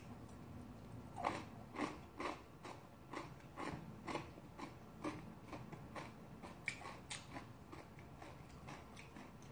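A person chewing a mouthful of food close to the microphone, in a steady rhythm of about two chews a second that begins about a second in and grows fainter toward the end.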